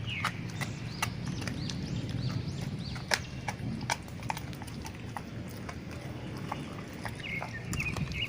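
Dogs chewing raw pork and chicken feet, the bones crunching in irregular sharp clicks and cracks over wet, steady chewing.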